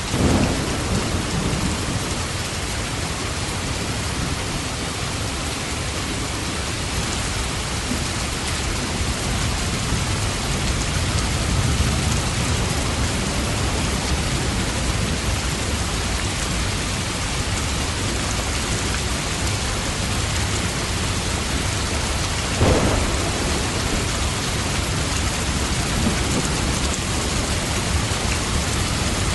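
Steady rain falling with thunder. Sharp cracks of thunder come right at the start and again about 23 seconds in, with low rumbling between.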